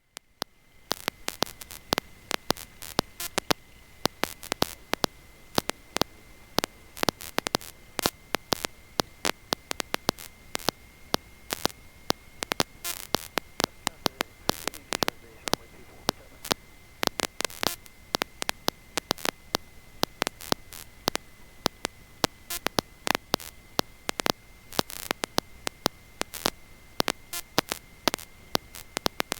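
Electrical static on the audio line: irregular sharp crackling clicks over a faint hiss, with a steady thin high whine, and no engine sound.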